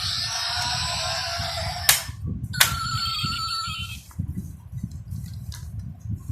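Handling of a 1:24 diecast toy car model. A steady hissing sound cuts off with a sharp click about two seconds in, a second click follows, then a brief steady tone and soft knocks and taps.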